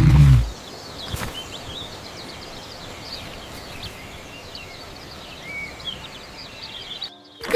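A loud, low roar-like sound ends about half a second in. It gives way to a steady outdoor ambience of noise with faint bird chirps scattered through it.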